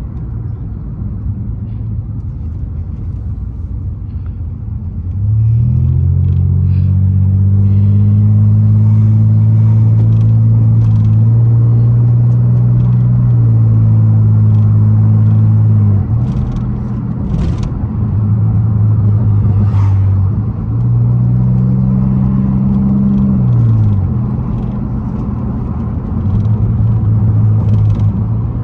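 Muffler-deleted 3.8-litre V6 of a 2002 Pontiac Grand Prix GT while driving: a lower rumble at first, then loud, steady exhaust drone under throttle about five seconds in. The drone drops away briefly about two-thirds of the way through and again near the end, as the throttle eases or the gear changes, then comes back.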